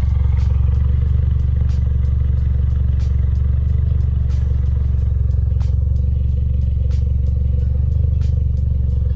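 A car engine running at a steady speed, a deep, unchanging drone, with faint sharp ticks recurring about every second and a third.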